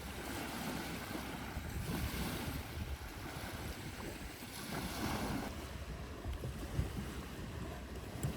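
Sea waves washing onto the shore, swelling twice, with wind rumbling on the microphone.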